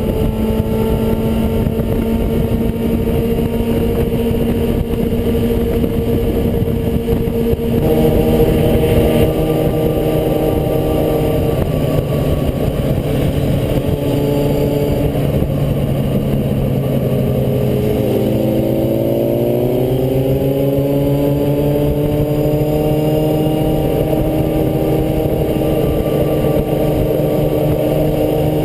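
Motorcycle engines running loudly at steady revs. About two-thirds of the way through, the pitch climbs in a slow rise as the revs go up.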